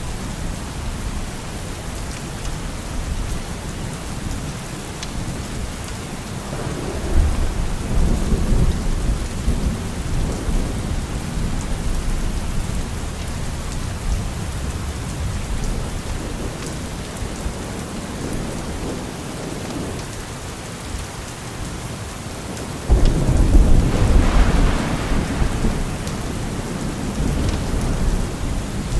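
Steady rain falling with thunder rolling in twice: a rumble about a quarter of the way in, and a louder, sudden clap near the end that rumbles off over several seconds.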